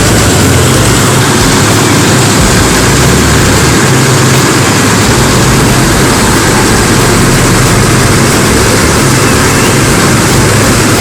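Old rice mill machinery running, a loud, steady mechanical din with a low hum underneath.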